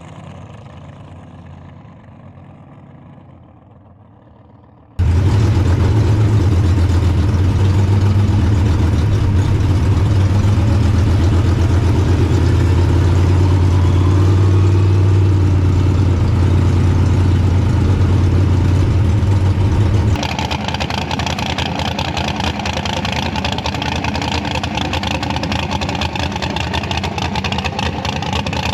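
Small-block V8 engine of a Cadillac street car running loud, with a deep steady drone. It cuts in suddenly about five seconds in, after a fading lead-in. Near the two-thirds mark the sound turns thinner and higher, its pitch climbing as the car accelerates.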